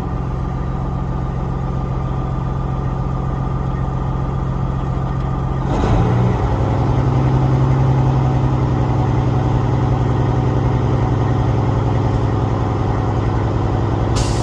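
Peterbilt 379's diesel engine idling, then brought up to a faster, steady idle about six seconds in to build air pressure quicker. A burst of hiss starts near the end as the air system reaches governor cut-out.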